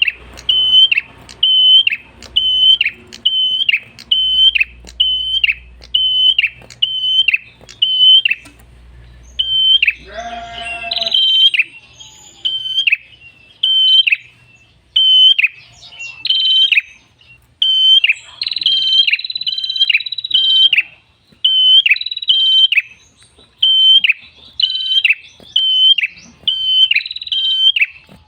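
A prenjak kepala merah (red-headed prenjak, a small tailorbird-type songbird) singing loudly and persistently, a rapid series of sharp, high, clipped notes at about one and a half a second. About ten seconds in comes a harsher, lower call, and a drawn-out high note follows a few seconds later.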